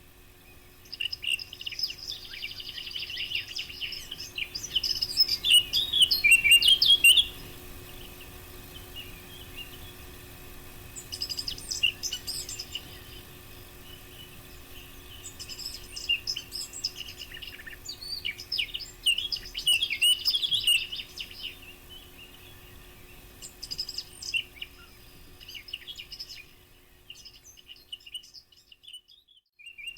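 Eurasian blackcap singing: a series of warbling song phrases a few seconds each, separated by short pauses. The loudest phrase, about five to seven seconds in, ends in a rich fluting flourish.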